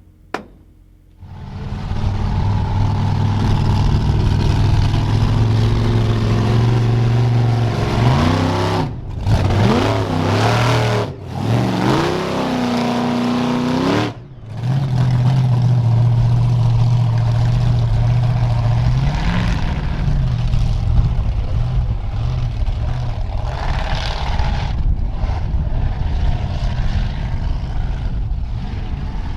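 Monster truck engine running loud, coming in about a second in after a sharp knock. Through the middle it is revved up and down several times with abrupt cut-outs, then it settles into a steady run.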